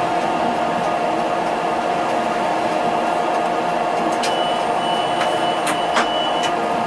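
Electric tram running, a steady rumble of wheels and track under a steady whine from the drive. A few sharp clicks come in the second half.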